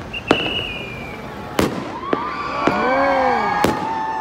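Fireworks bursting overhead: about five sharp bangs, with a high steady whistle in the first second and voices whooping in the second half.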